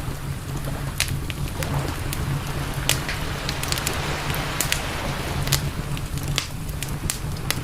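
Campfire crackling, with sharp pops coming irregularly several times a second over a steady low rumble.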